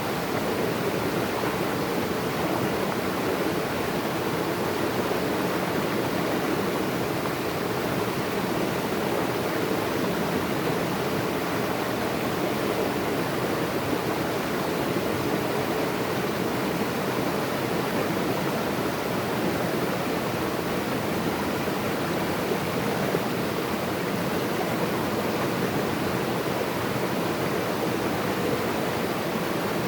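Naturally flowing water rushing steadily, an even wash of sound without separate splashes or drips.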